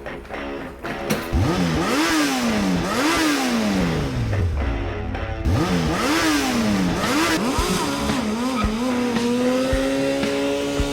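An engine revving up and falling back again and again, about once a second, then holding a steady pitch near the end, over background music.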